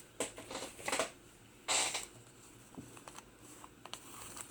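Paper pages of a handmade journal rustling as they are handled, in short scrapes and crinkles with a few light taps, the loudest rustle about two seconds in.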